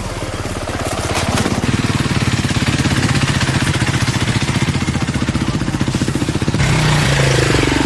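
Dirt bike engine running with a fast, even pulsing beat. The sound changes abruptly about six and a half seconds in, and its pitch falls near the end.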